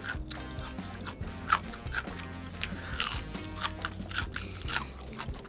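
Close-up biting and chewing of crispy fried chicken, with repeated sharp crunches, one loudest about a second and a half in. Background music with a steady bass line plays underneath.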